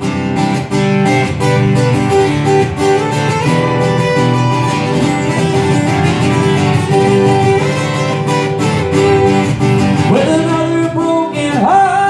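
Live acoustic guitar strumming an instrumental passage between sung lines, with a voice gliding in near the end.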